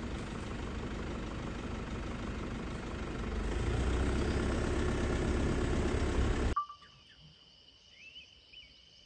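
Car engine running with a steady rumble that grows louder about three seconds in, then stops suddenly two-thirds of the way through. A faint steady insect drone and a couple of short bird chirps follow.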